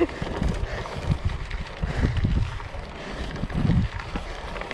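Wind buffeting the microphone of a camera carried on a moving bicycle, in uneven low gusts that swell about two seconds in and again near the end.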